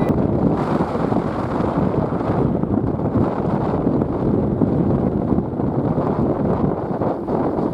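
Strong gusty wind buffeting the microphone in a loud, fluttering low rumble.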